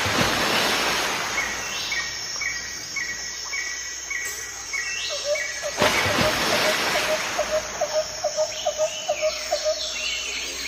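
Birds chirping: a short call repeated several times a second and a steady run of high notes about two a second. A rushing hiss swells suddenly at the start and again about six seconds in.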